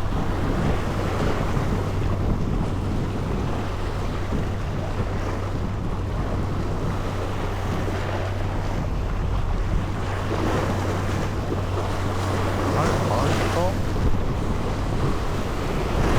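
A boat's engine running with a steady low drone, under wind buffeting the microphone and rushing water. About three-quarters of the way through come a few short gliding squeaks.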